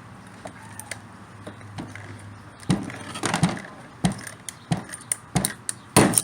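Irregular knocks and clatter of small parts and tools being picked up and set down, a handful of sharp hits in the second half with the loudest near the end.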